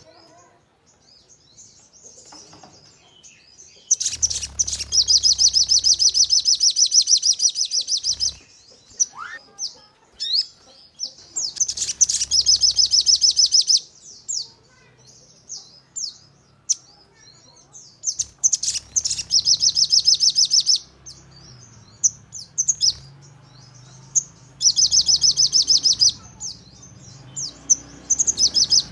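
Sogon (crested jay) calling: four long bouts of fast, high rattling, each lasting about two to four seconds, with short sharp chirps and clicks in between.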